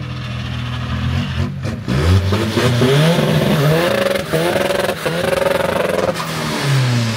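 Volkswagen Polo TDI PD diesel engine running steadily, then revved hard about two seconds in: its pitch climbs in several surges and falls back near the end. It is running on a newly flashed ECU map, in its first test pull.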